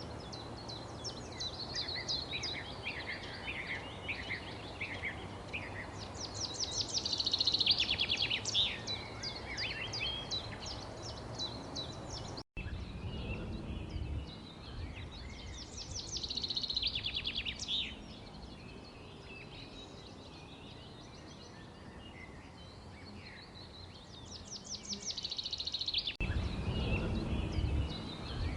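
Songbirds chirping and singing, with bouts of rapid high trills several times, over a steady low background rumble. There is a brief break in the sound about halfway through.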